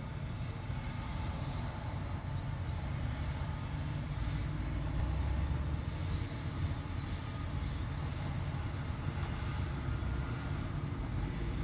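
Heavy vehicle engine running steadily, a low rumble.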